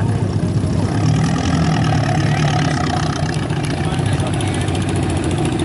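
Old tractor engine idling steadily.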